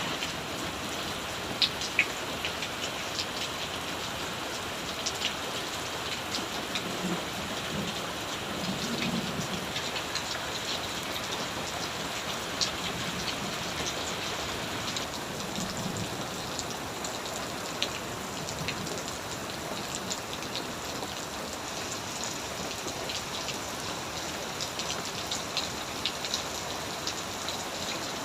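Steady rain falling and hitting surfaces, a constant hiss with many separate sharp drop ticks throughout.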